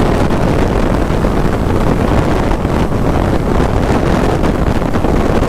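Steady wind rush on the microphone of a camera riding along at road speed on a motorcycle, with road and engine noise mixed into an even roar.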